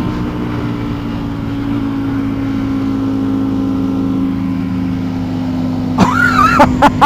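Sport motorcycle engine running steadily at speed with wind rush, its pitch easing slightly lower as the bike backs off after a race. Near the end, a voice-like sound cuts in over it.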